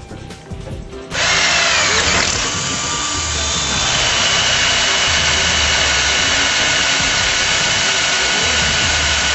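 Handheld power tool cutting into a hardened aluminum-rod weld, starting suddenly about a second in and then running steadily, with a high tone over a harsh grinding noise.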